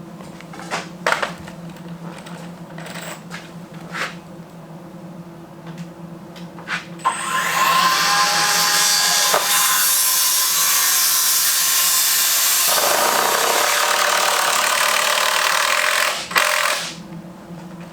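A few wooden knocks, then a power tool spins up about seven seconds in and runs loudly and steadily for about ten seconds before stopping near the end.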